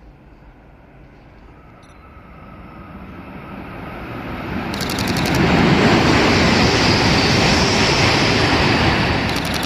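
E3 series Shinkansen passing through a station at speed without stopping: its running noise builds over several seconds, holds at its loudest, then begins to fade near the end. Two short rapid bursts of camera shutter clicks, about five seconds in and again near the end.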